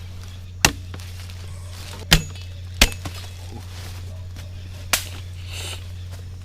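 Four sharp, irregularly spaced chopping strikes, the kind a machete makes cutting into a tree trunk to draw its milky latex, over a steady low hum.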